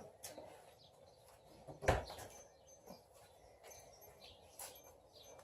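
Faint bird chirps in the background, with one sharp knock about two seconds in.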